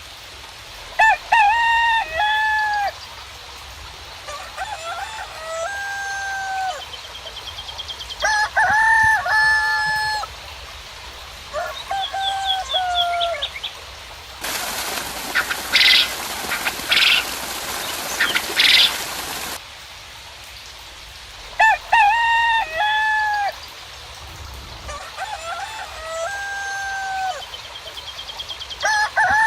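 Roosters crowing again and again, the crows coming in close groups, with small birds chirping and trilling high above them. About halfway, a steady hiss of rain rises for some five seconds and then cuts off.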